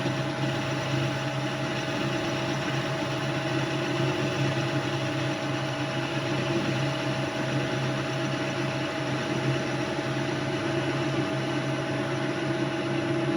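Metal-turning lathe running steadily, its motor and gearing giving an even drone with a few steady tones over a noisy hiss.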